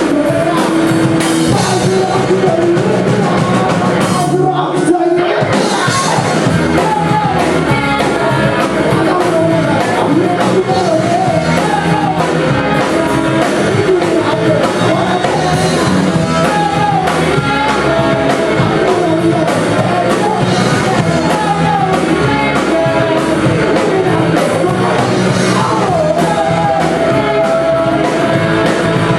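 Amateur rock band playing live with a singer, drums, guitars and bass, loud and full throughout, with a brief break in the music about four to five seconds in.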